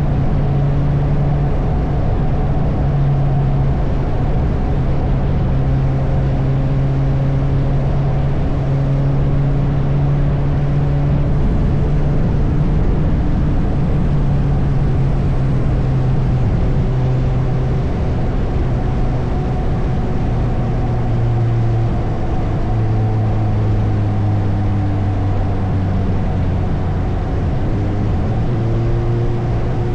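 Suzuki motorcycle engine running steadily while riding in traffic, a continuous hum that drops a little in pitch about halfway through and rises again near the end, with wind and road noise rumbling underneath.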